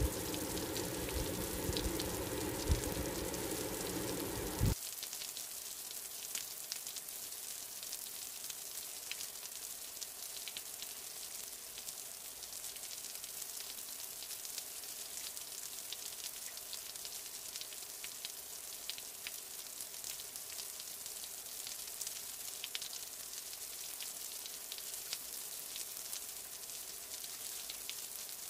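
Chicken pieces frying in hot oil in a pan: a steady sizzle with fine, irregular crackles and pops. For the first few seconds a louder low rumble lies under it, then cuts off suddenly.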